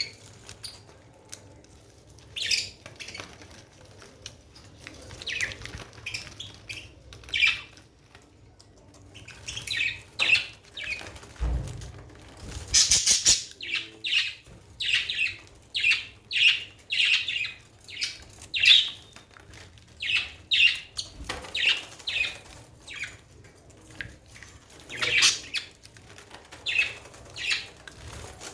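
A budgie bathing, fluttering its wings in short repeated bursts, with a few chirps. The bursts are sparse at first and come about once or twice a second through the second half.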